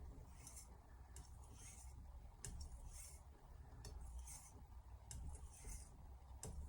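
Faint, repeated swishes of a carbon steel knife blade stroked across a whetstone, about one stroke a second, with a few light clicks in between.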